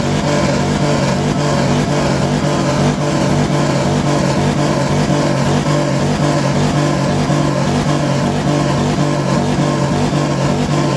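Car engine held at constant high revs with a loud exhaust, a steady unbroken drone.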